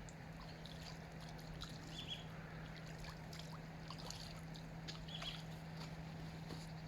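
Outdoor ambience at the water: a steady low hum runs throughout, with a short high chirp about every three seconds and faint scattered ticks.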